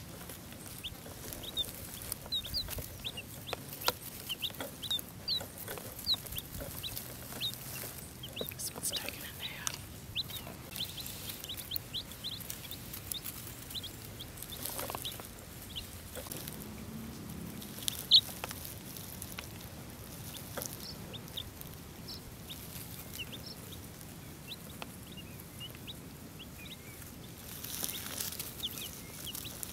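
Baby chicks peeping: many short, high chirps, scattered and overlapping all through, with one sharp click partway through.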